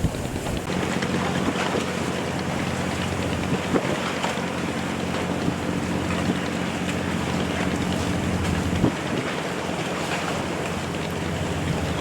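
Fishing boat's engine running steadily under way, over wind buffeting the microphone and the rush of water, with a few brief knocks.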